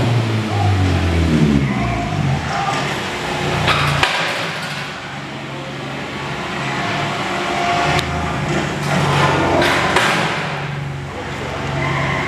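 Hyundai Veloster engine running through a freshly muffler-deleted exhaust: the revs fall back over the first couple of seconds, then it idles with a steady low drone. Sharp metallic knocks come about four seconds in and again around eight and ten seconds.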